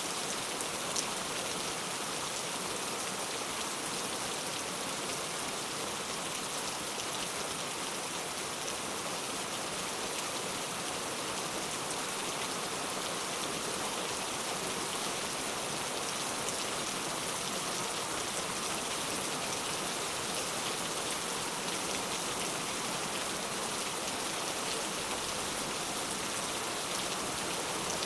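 Steady rain falling on a surface, an even hiss of many drops with fine scattered drop ticks and one sharper drop tick about a second in.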